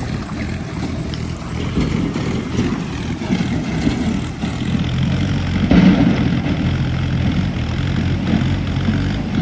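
Heavy diesel engines running hard under load as tractors strain to pull a stuck truck through a river, the sound swelling loudest about six seconds in.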